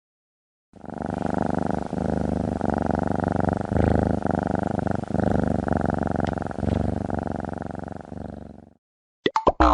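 A cat purring: a fast, even pulsing that runs for about eight seconds in phrases of a second or so, breath by breath.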